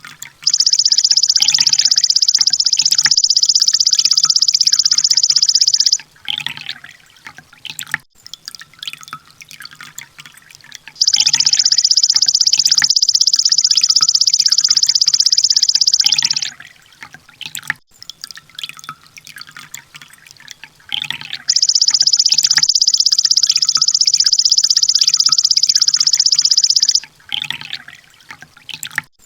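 Kolibri ninja sunbird song: three long, very rapid high trills of about five seconds each, starting about every ten seconds, the 'tembakan' burst used to train cage birds, with short sharp chirps in between.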